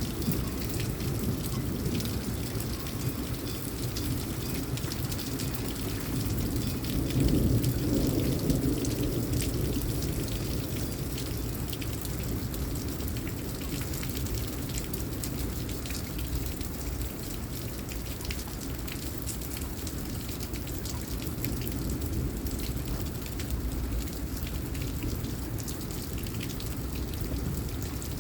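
Steady rain from a derecho thunderstorm, with fine drop patter. A low rumble swells about seven seconds in and fades over a few seconds.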